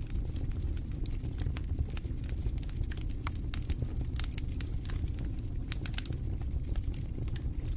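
Fire in a fireplace crackling: many irregular sharp pops and snaps over a steady low rumble of the flames.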